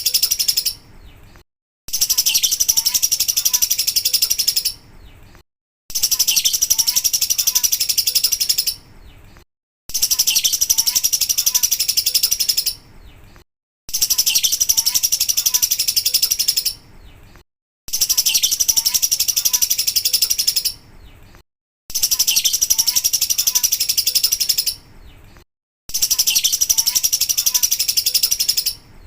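Lovebird 'ngekek': a long, rapid, high-pitched chattering trill. The same burst of about three seconds repeats about every four seconds, each followed by a short gap, as a looped recording for tutoring other birds.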